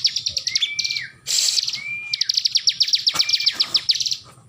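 Bar-winged prinia (ciblek) singing: three bursts of rapid, high, sharp notes, each with a short whistled note that rises and falls, falling quiet near the end.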